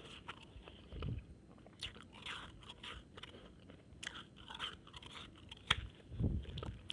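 A mouthful of shaved ice being bitten and chewed close to the microphone: uneven crunching with sharp cracks about two, four and six seconds in.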